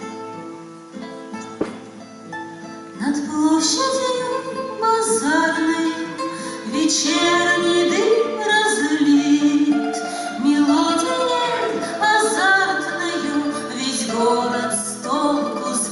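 Song with a plucked-string accompaniment: a few seconds of instrumental, then a singer comes in about three seconds in and carries a wavering melody over it.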